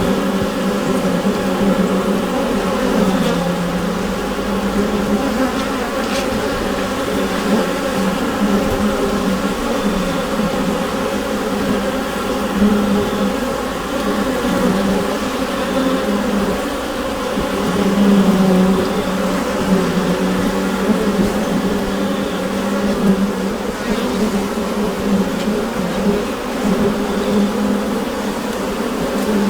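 Honeybees buzzing inside the hive: a dense, steady hum of many bees, with a low drone and layered overtones that swell slightly a few times.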